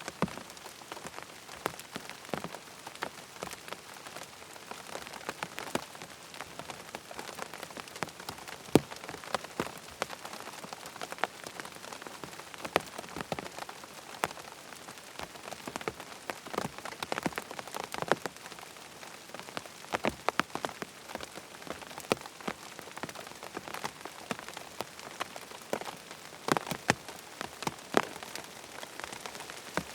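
Rain falling on a tent: a steady hiss of rain with many separate sharp drop taps landing irregularly, some louder than the rest.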